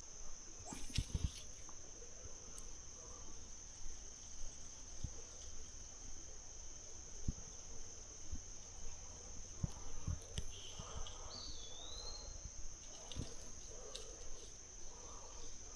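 Steady high-pitched trilling of insects, an unbroken chorus, with scattered soft knocks and clicks and one short bird whistle about eleven seconds in.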